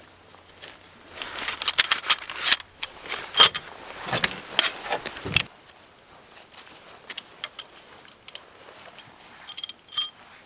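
Camping gear being handled: rustling with a quick run of sharp metallic clinks and clicks for a few seconds, then a few scattered clicks and one bright clink near the end.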